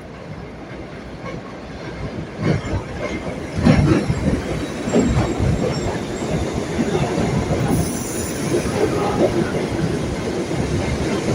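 R62A subway train running on the rails and growing louder as it approaches, its wheels knocking over rail joints above a steady rumble, with faint wheel squeal.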